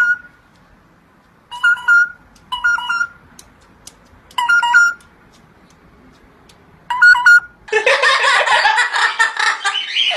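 A pet parrot giving short, two-note whistled calls, about half a second each, repeated five or six times with pauses like a phone ringtone. A loud, jumbled burst of voice-like sound takes over near the end.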